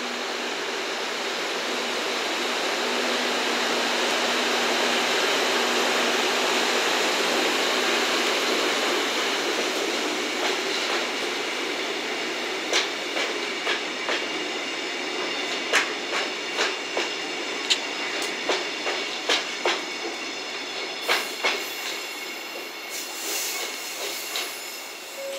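EF65 electric locomotive and its flat wagons loaded with rails rolling past: a steady rumble of the train that swells over the first few seconds, then a string of sharp wheel clicks over rail joints as the wagons go by, the sound slowly fading as the train moves away.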